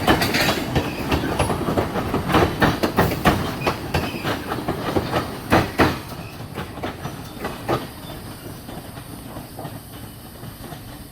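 Freight train cars rolling past on jointed track, their wheels clacking rapidly over the rail joints over a steady rumble. The sound fades after about six seconds as the train moves away.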